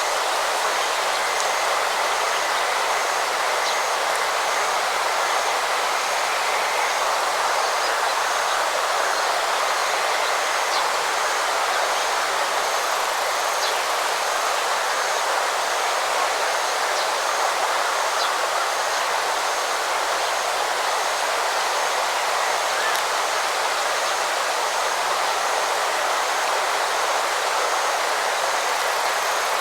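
Steady rush of flowing water. A faint, high, evenly repeated chirp runs over it at about one and a half a second.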